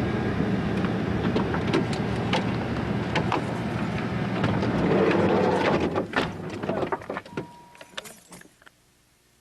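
Van engine and road noise with scattered knocks and rattles, dying away over the last few seconds as it comes to rest.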